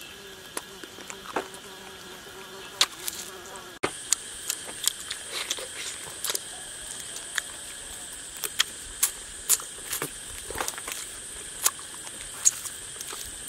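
Close-up mouth sounds of eating baked frog meat: irregular sharp wet clicks and smacks of chewing, several a second at times. From about four seconds in, a steady high drone of insects runs underneath.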